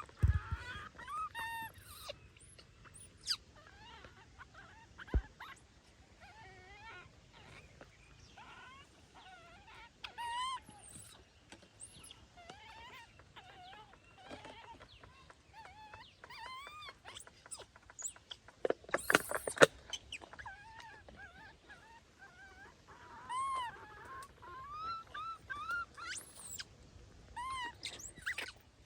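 Baby monkeys calling with many short, high, arching cries and whimpers. About two-thirds of the way through there is a brief loud noise.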